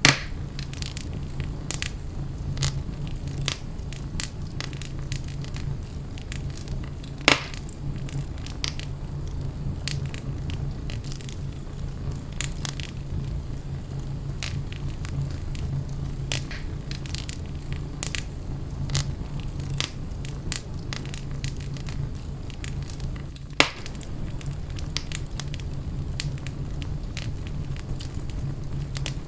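Wood fire crackling in a fireplace: a steady low rumble of flames under frequent sharp crackles, with a few louder pops, one at the very start, one about seven seconds in and one about two-thirds of the way through.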